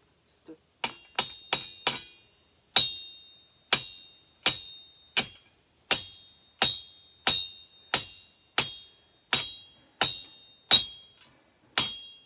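Hammer blows on steel, each leaving a clear metallic ring. About seventeen strikes: four quick ones about a second in, then a steady beat of roughly one every 0.7 s.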